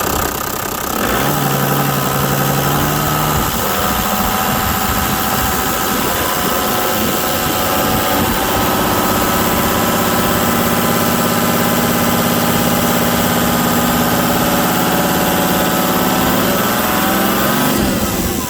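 Toyota 1HD-FTE 4.2-litre turbo-diesel straight-six revved up from idle about a second in and held at raised revs, then dropping back toward idle near the end.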